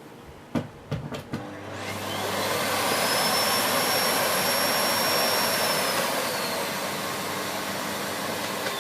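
A few plastic clicks as a plug goes into a wall socket, then the 2500 W motor of a Siemens Z6.0 Power bagged cylinder vacuum cleaner starts straight away because it was left switched on. It spins up with a rising whine over about a second and a half and runs steadily. Near the end the whine begins to drop in pitch.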